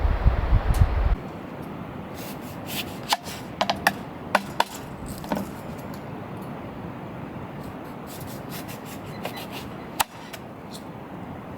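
Wind buffeting the microphone for about the first second, then, after an abrupt change, a quiet stretch of scattered light knocks and clicks with rubbing, the clearest cluster a few seconds in and one sharp knock near the end.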